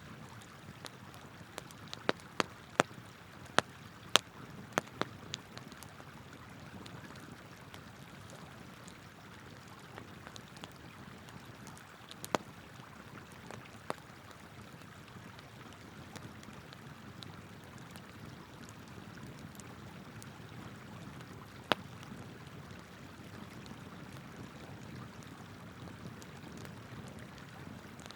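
Wood campfire crackling, with a quick run of sharp pops early on and then only a few scattered pops, over the steady rush of a flowing river.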